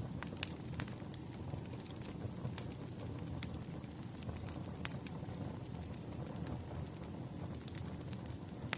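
Burning firewood crackling: a steady low rumble of flames with scattered sharp pops and snaps, a few louder ones spread through.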